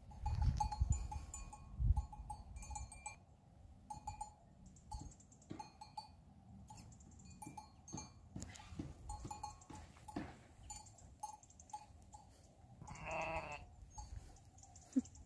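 Bells on a grazing flock clinking irregularly. One bleat sounds near the end, and there is low rumble at the start.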